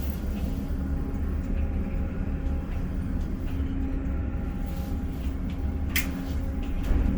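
Container crane machinery running with a steady low drone and a steady hum, with a sharp click near the end.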